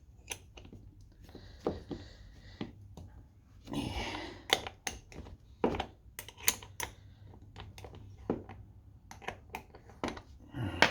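Light metallic clicks, taps and brief scrapes of small carburetor parts being handled as the float bowl is taken off a small engine's carburetor, ending with a ringing metal clink near the end.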